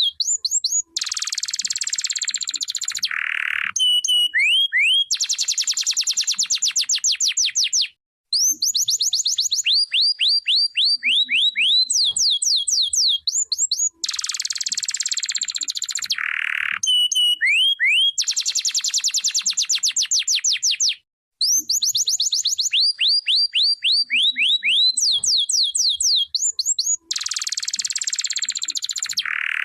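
Domestic canary singing a long, loud song: runs of quick rising whistled notes, fast trills and harsh buzzing rolls, with two brief pauses. The same sequence of phrases comes round about every thirteen seconds.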